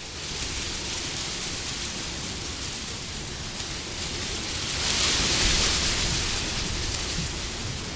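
Wind blowing as a steady rushing noise that swells into a stronger gust about five seconds in, then eases back.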